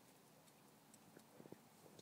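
Near silence, with a few faint ticks about a second and a half in.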